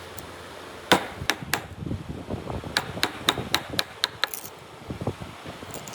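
Hammer blows on wood during hand joinery. There are a few sharp strikes about a second in, then a quicker run of about four strikes a second, with softer knocks in between.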